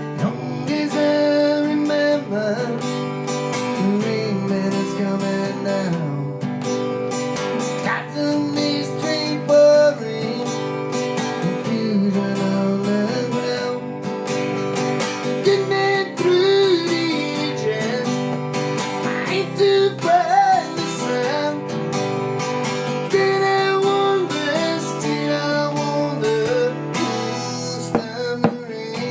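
Acoustic guitar strummed steadily through an instrumental stretch of a song, with some sustained, gliding melody notes over the chords.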